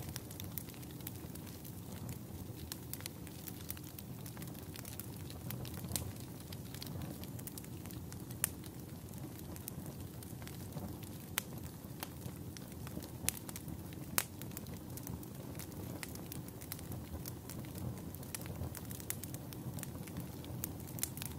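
Campfire burning: a steady low rumble of flames with frequent sharp crackles and occasional louder pops of the burning wood.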